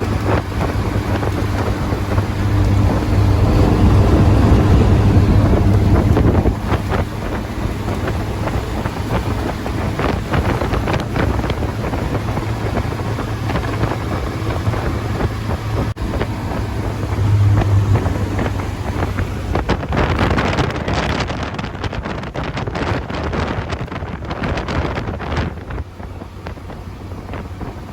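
Classic Morgan Plus 4 sports car driving at speed: a steady engine drone under heavy wind buffeting on the microphone, loudest for a few seconds near the start.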